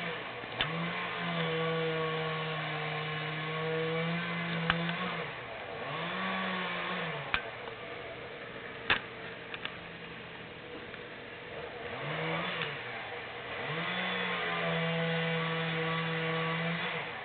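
Chainsaw revving repeatedly: it is held at high speed for a few seconds while cutting small hickory trees, with short throttle blips in between, and it drops back each time. A few sharp knocks break in.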